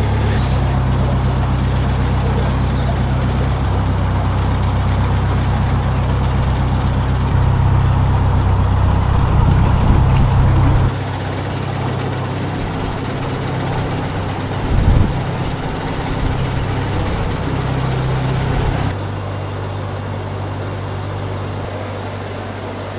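Narrowboat's diesel engine running steadily at low revs, its level stepping down twice, about halfway and near the end. A short knock sounds a little after halfway.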